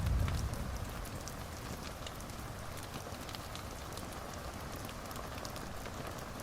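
Wood fire crackling: a steady hiss with scattered sharp pops, and a brief low rumble at the start.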